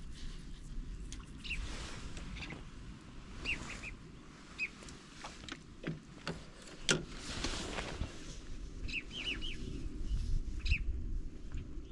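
Bird chirping in short high calls, some in quick groups of two or three, over a low steady rumble of wind on the microphone; a few sharp clicks sound around the middle.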